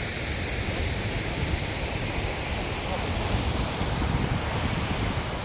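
Wind buffeting the microphone outdoors: a steady rushing noise with a heavy, fluttering low rumble.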